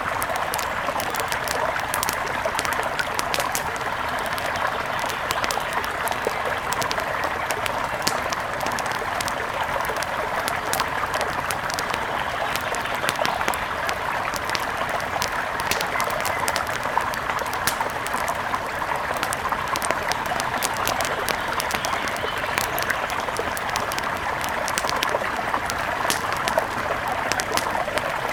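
Steady rush of a mountain river, with many small sharp crackles scattered throughout.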